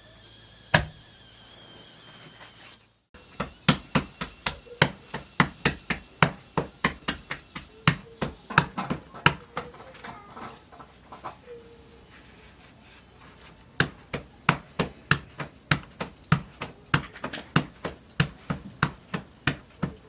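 Repeated sharp knocks, about two or three a second, starting about three seconds in, stopping for a couple of seconds midway, then going on again.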